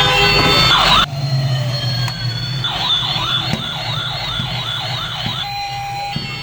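Electronic siren sound effect from a battery-powered toy police car: a fast warbling wail that wavers about three times a second. Before it, a run of steady beeping tones cuts off suddenly about a second in.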